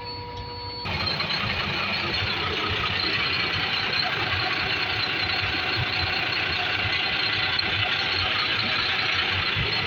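Steady hiss of compressed air leaking from a truck's rear brake chamber, with the truck's engine idling underneath. The hiss starts suddenly about a second in.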